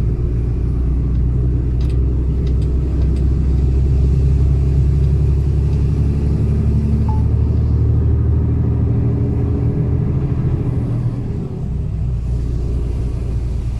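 Mercedes-Benz Actros truck's diesel engine running steadily under load, a deep drone, easing slightly near the end.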